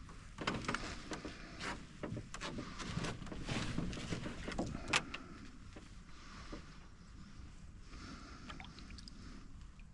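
Canoe being paddled: water splashing and dripping off the paddle, with a run of clicks and knocks against the hull in the first half, the sharpest about five seconds in. After that comes quieter trickling water.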